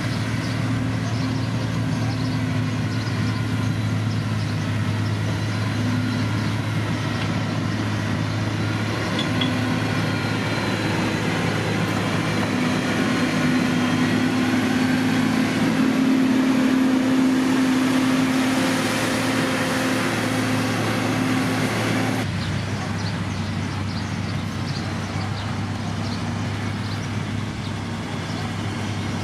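Diesel engine of heavy road-construction machinery running steadily. It grows louder about halfway through, then the sound changes abruptly about three-quarters of the way in.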